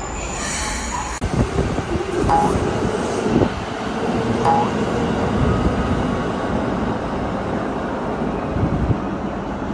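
Commuter train running: a low rumble of wheels and carriage that swells about a second in, with a steady motor tone for a few seconds and occasional knocks.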